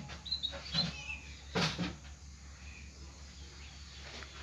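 A few short, high bird chirps in the first second or so, with one sudden thump about a second and a half in, over a steady low hum.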